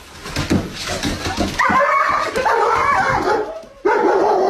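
A dog whining in long, wavering high-pitched cries. The cries are preceded by a few soft knocks and broken by a short pause near the end.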